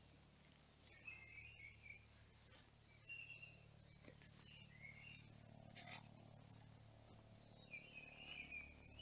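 Faint songbirds singing: short chirps and warbling phrases at irregular intervals, with a longer warble near the end.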